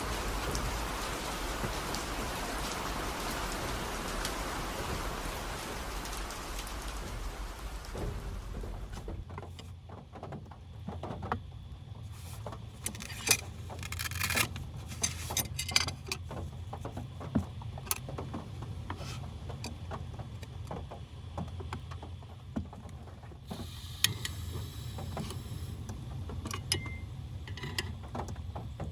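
Steady rain falling for the first eight seconds or so, then it gives way to a low steady hum with scattered clicks and knocks.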